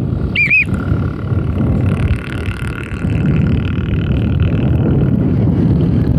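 Strong wind buffeting the microphone, a steady low rumble, with a bird's quick two-note call just under a second in.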